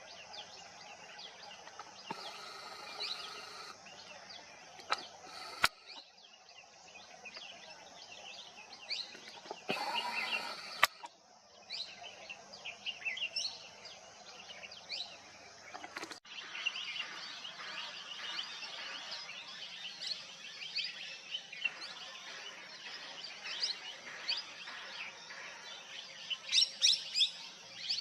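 Many birds chirping and calling over one another in a busy chorus of short, high chirps, broken by a few sharp clicks. A burst of louder chirps comes near the end.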